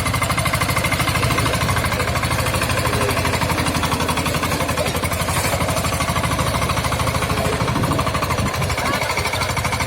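VST Shakti mini tractor's diesel engine running steadily with a fast, even chugging beat.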